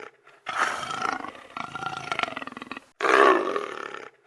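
Leopard calling: about three hoarse, rasping roars, each about a second long and loudest at its start, with short gaps between them.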